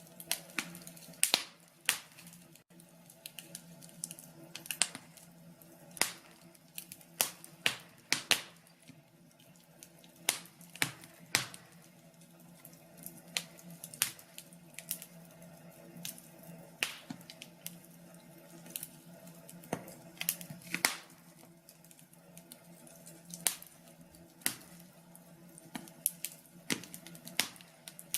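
Wood fire crackling in a fireplace: irregular sharp pops and snaps, several a second at times, over a faint low steady hiss.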